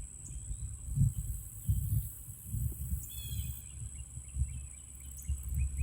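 Irregular low thumps and rumble, with a bird calling briefly about three seconds in.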